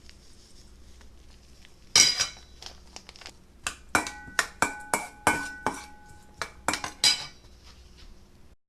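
Metal clattering and clinking: a quick run of knocks, some ringing briefly, starting about two seconds in and stopping about seven seconds in.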